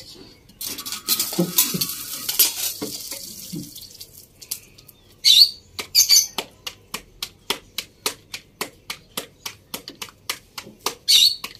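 A paratha sizzling in hot oil on a griddle for a few seconds. After that comes a steady run of light clicks, about three a second, with a few short high bird chirps.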